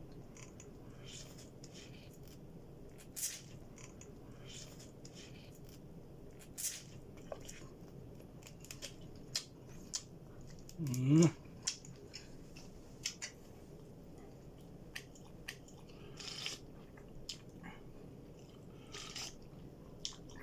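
A person chewing and smacking while eating, heard as a scatter of short wet clicks. About halfway through there is a brief sound from the voice, the loudest moment.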